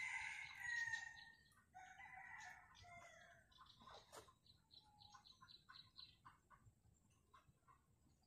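Birds calling: two drawn-out calls in the first three seconds, the first falling away at its end, then a run of short quick chirps that fade out.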